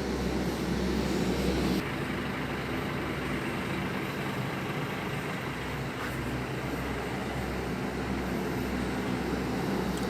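Scania K360 bus's diesel engine running steadily with a low, even hum. About two seconds in, the sound drops a little and turns duller.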